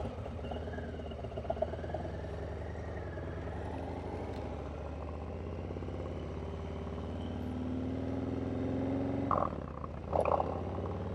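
Harley-Davidson Low Rider S's Milwaukee-Eight 114 V-twin running through a Vance & Hines stainless 2-into-1 upsweep exhaust while riding. The engine note climbs steadily over the second half, breaks off about nine seconds in, and a couple of short sharp sounds follow.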